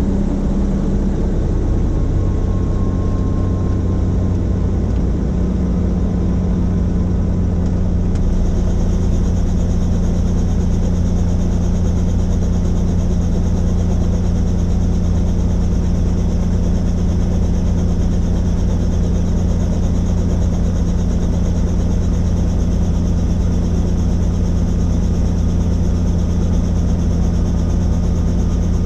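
Helicopter in flight: the steady, loud drone of its rotor and turbine engine, with a high whine coming up about eight seconds in.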